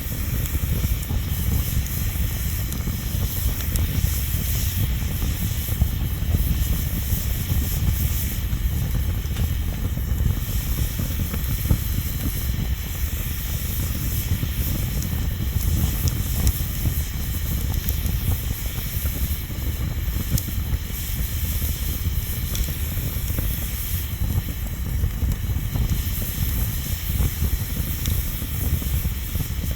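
Bonfire burning: a steady hiss over a low rumble, with a few faint crackles here and there.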